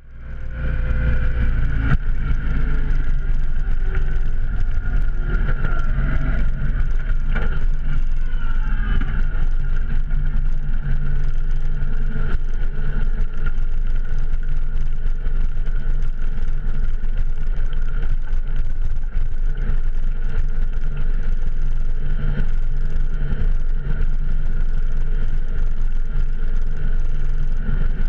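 Motorcycle engine running steadily under way, a loud even drone with little change in pitch.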